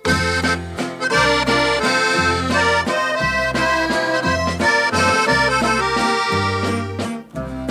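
Norteño music, instrumental: a button accordion plays the melody over a steadily moving bass line, without singing.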